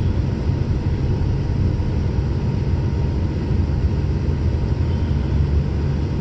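Steady low rumble of a vehicle driving on a wet, snowy road: engine and road noise from its mud-terrain tyres.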